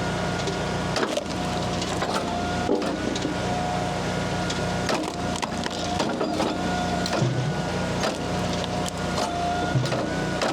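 Hydraulic log splitter running steadily, its pitched whine shifting up and down, while sweet gum and maple rounds crack and splinter under the wedge in sharp snaps throughout.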